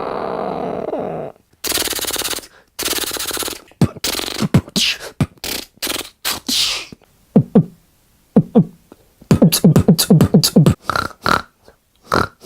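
A person making sound effects with the mouth, beatbox-style: a steady buzzing noise for about a second, then loud hissy bursts and clicks, and runs of quick downward-falling tones, the fastest run near the end.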